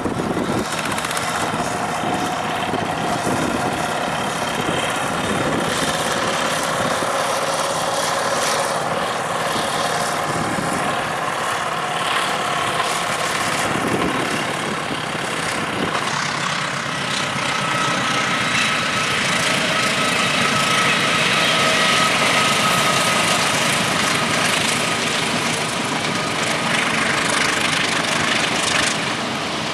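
Tractor's diesel engine running steadily, a little louder about two-thirds of the way in.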